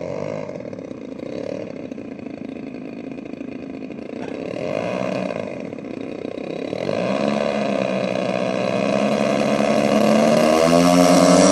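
Twin DLE 35cc two-stroke petrol engines of a large radio-controlled Cessna 310 model running. The engine note steps up in pitch about seven seconds in and again near the end, growing steadily louder as the throttle opens.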